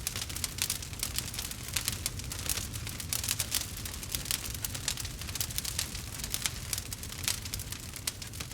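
Campfire crackling: dense, irregular pops and snaps over a steady low rumble of burning.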